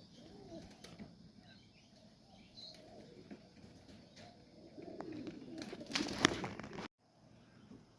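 Domestic pigeons cooing, then a loud flurry of wing flapping and wing claps about six seconds in as birds take off from the loft.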